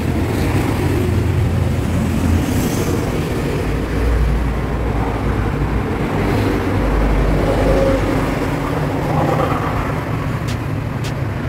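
Road traffic passing nearby: a continuous low rumble of vehicles that swells twice, about four and seven seconds in, with a few light clicks near the end.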